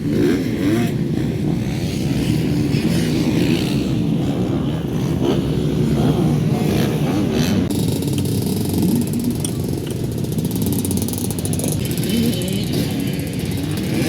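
Motocross motorcycle engines running on the track, their engine notes rising and falling steadily throughout.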